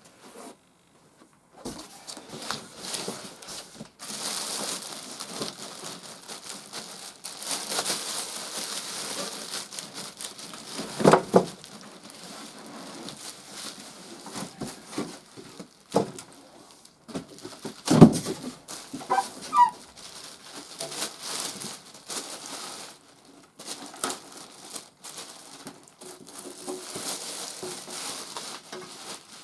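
Packing material being handled while unpacking an electric furnace: plastic and foam crinkling and rustling on and off, with a few knocks, the loudest about 18 seconds in.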